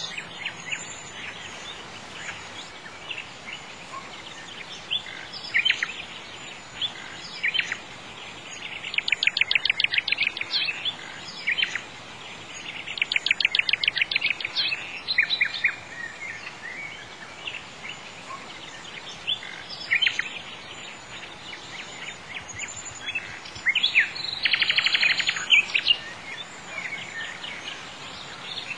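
Birds chirping and singing, with several rapid trills of quick repeated notes, over a faint steady background hiss.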